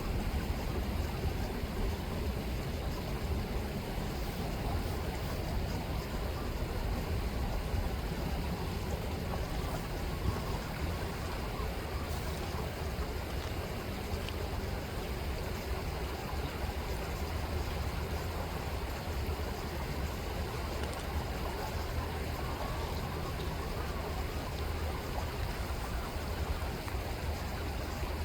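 River water rippling and rushing steadily, with a steady low rumble underneath.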